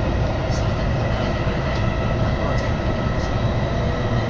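Electric commuter train running at speed, heard from inside the carriage: a steady rumble of wheels on rails, with a few faint high ticks.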